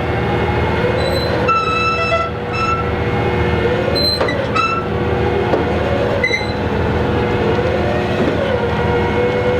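Heavy diesel engine running steadily, with a few short high-pitched squeaks and wavering squeals over it.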